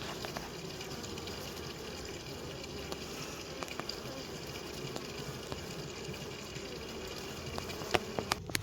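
Steady hum of a busy honeybee colony in a Layens hive, with a few faint ticks scattered through it. Near the end come several sharp knocks.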